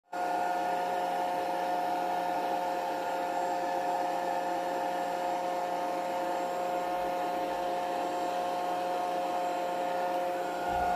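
Small DC motor spinning a fan in a homemade plastic-bottle vacuum cleaner, running steadily with an even high whine.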